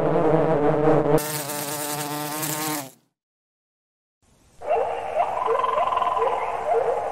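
Honeybees buzzing at the entrances of a row of wooden hives, a dense steady drone that changes about a second in and stops about three seconds in. After a second of silence comes a chorus of short rising chirps over a hiss, with one held note in the middle.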